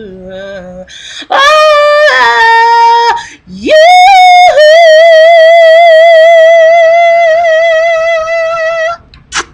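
A voice singing long wordless notes: a short phrase stepping down in pitch, then one long held note with a steady vibrato that stops about nine seconds in.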